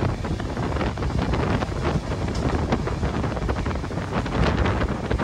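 Wind buffeting the microphone over the steady low rumble of a moving train hauled by a WDG4 diesel locomotive, with irregular clicks and knocks throughout.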